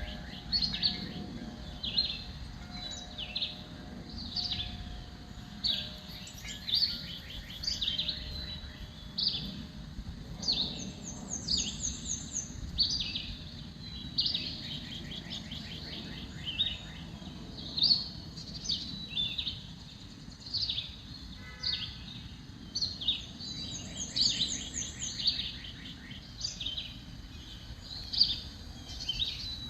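Songbirds chirping repeatedly, short sharp calls about once a second, with a quick high trill twice, over a steady low background rumble.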